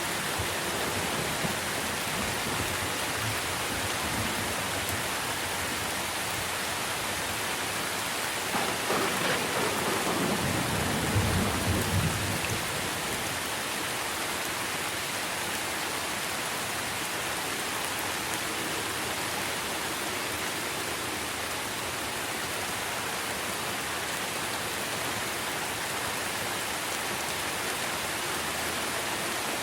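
Steady heavy rain falling on trees and leaves. About nine seconds in, a crack of thunder breaks out and rolls into a low rumble that lasts about four seconds before dying back under the rain.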